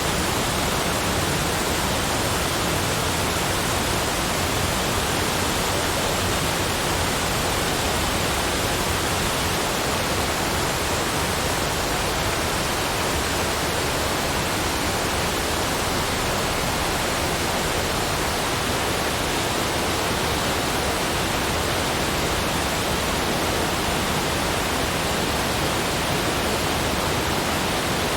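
Continuous, even rushing noise spread across the whole range, steady in level, with no separate sounds in it.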